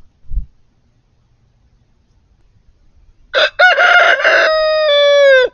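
A rooster crowing once, starting about three seconds in: a few short notes, then a long held note that drops away at the end. A brief low thump comes just after the start.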